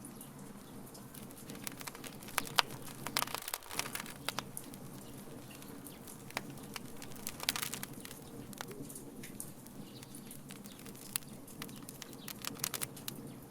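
Wood fire crackling, with irregular sharp pops and snaps that come in clusters, over a steady low rumble.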